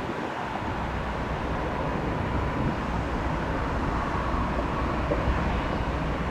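Steady jet airliner engine noise: an even rumble mixed with airport wind.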